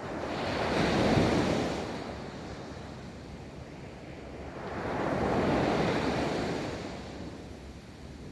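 Ocean surf: two waves break and wash up the beach, the first about a second in and the second, longer one around the middle, each swelling and fading over a couple of seconds, over a steady wash of surf with some wind on the microphone.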